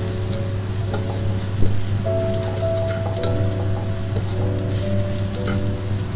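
Minced garlic sizzling in hot oil in a wok as it is stirred with a spatula, with one sharp knock about a second and a half in.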